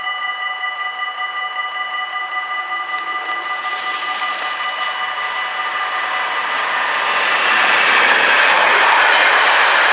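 Level-crossing warning bells ring steadily while a freight train approaches. Its running noise on the rails grows from about four seconds in and turns loud near the end as the SNCB class 28 electric locomotive reaches the crossing, drowning out the bells.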